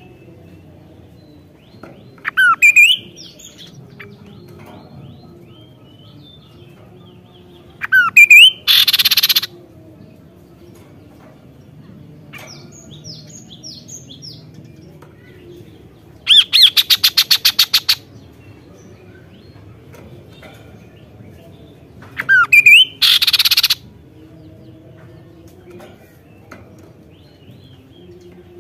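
Kaso-kaso bird calling in loud, spaced phrases: quick sweeping whistled notes, twice followed by a harsh buzzy rasp about a second long, and once a rapid clicking rattle. Softer chirps sound in between.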